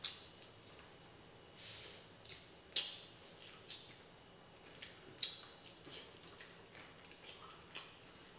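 Quiet, wet eating sounds of a person chewing a mouthful of rice and fried egg eaten by hand: scattered short clicks and smacks of the mouth and lips.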